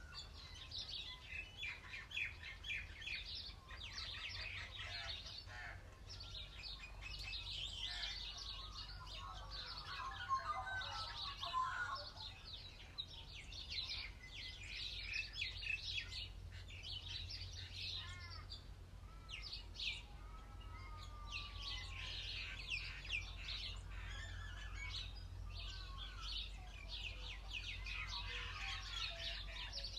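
Birdsong: a chorus of birds chirping and twittering throughout, with a few sliding whistled calls near the middle, over a low steady rumble.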